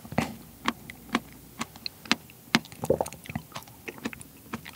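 Close-miked wet mouth and lip smacks from chewing soft, ripe seedless Cheongdo bansi persimmon pulp: a string of small sticky clicks, about two or three a second.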